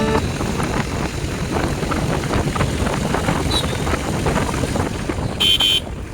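Motorcycle riding noise: wind buffeting the microphone over the running engine and road. About five and a half seconds in, a vehicle horn gives one short beep.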